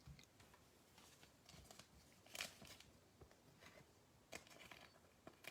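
Near silence with a few faint, scattered rustles and light ticks of trading cards being slid into card sleeves.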